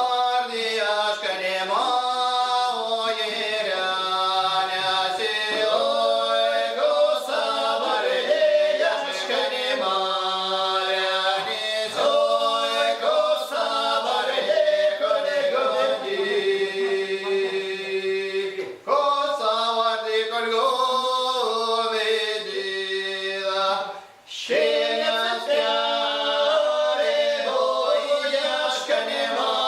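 Traditional Moksha (Mordovian) folk song sung unaccompanied by a small ensemble in several-part harmony, with long held notes. The voices break off briefly twice, about two-thirds of the way through and again a few seconds later, then carry on.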